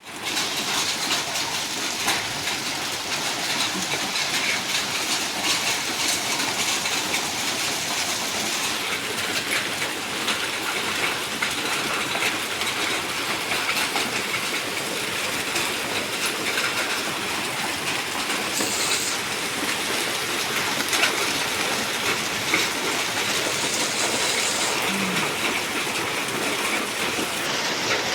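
Heavy storm downpour: a loud, dense, steady rush with many small sharp hits throughout.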